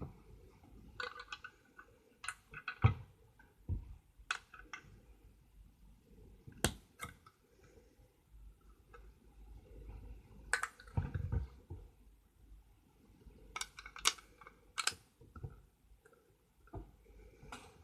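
Plastic Lego pieces being handled: irregular clicks and clatters, with a few dull thumps.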